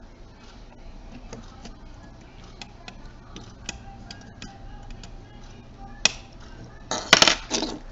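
Small sharp clicks and ticks of a precision screwdriver and small plastic and metal camcorder parts being handled as screws come out of a circuit board, with a louder clatter of parts about six to seven seconds in.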